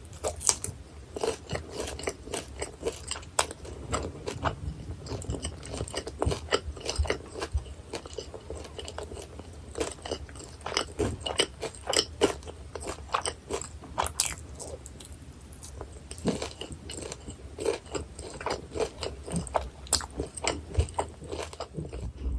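Close-miked eating of guobaorou, Chinese crispy fried sweet and sour pork: a steady run of crisp crunches from the fried batter, mixed with chewing.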